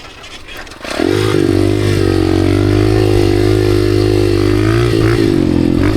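Dirt bike engine, quiet for about a second, then opened up with a sudden rise to a loud, steady running note under throttle. The pitch dips briefly about a second later and again near the end.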